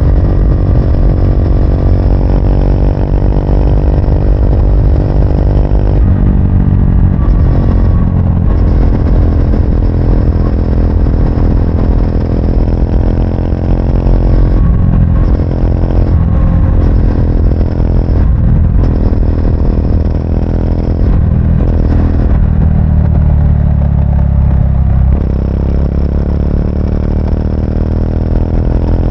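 Triumph Speed 400's single-cylinder engine running on the road, its note rising and falling through the gears. The note dips briefly several times, then eases off for a few seconds past the twenty-second mark before pulling up again.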